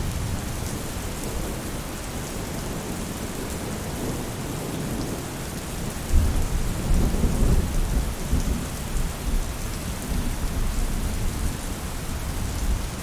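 Steady rain falling on a roof, with a deep rumble of thunder that swells suddenly about six seconds in and rolls on for several seconds.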